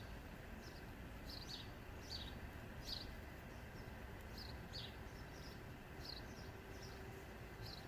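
Small birds chirping in the background: short, high, downward-sweeping chirps about twice a second over a faint steady low hum.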